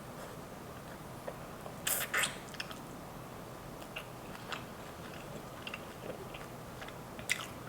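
Close-up chewing of a garlic Parmesan chicken wing: soft wet mouth clicks and smacks, with a small cluster of louder ones about two seconds in and again near the end.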